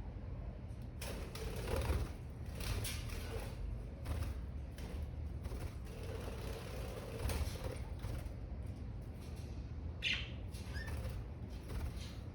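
Budgies moving about in their cage, making short scratching and clicking sounds over a steady low hum, with one short chirp about ten seconds in.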